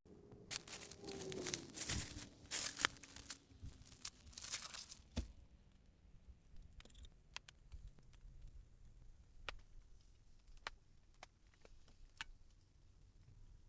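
Crinkling, tearing rustle of material being handled for about five seconds, then a run of sparse, light single ticks.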